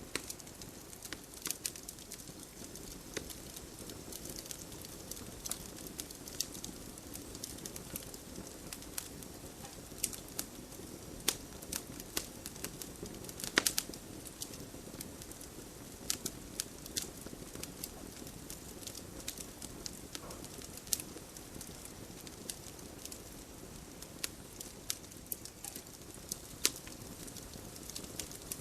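Wood fire crackling: irregular sharp pops and snaps over a steady low rumble of flames, with one louder pop about halfway through.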